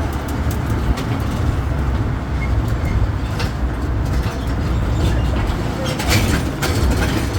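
Tourist road train under way, heard from on board: a steady low engine rumble and road noise, with scattered clicks and rattles from the carriages.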